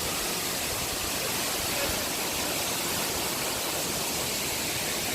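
Steady rushing of water from a waterfall about 30 metres high.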